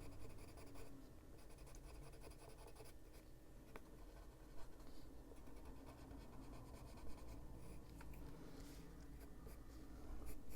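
Faint scratching of a Caran d'Ache Luminance coloured pencil being worked over paper, with a couple of short knocks.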